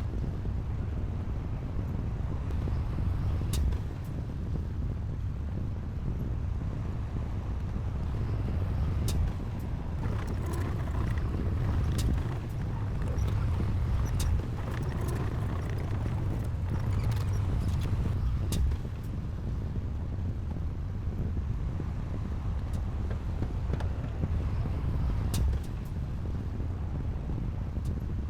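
Heavy earthmoving machine's diesel engine running steadily at work, with scattered sharp clicks and knocks.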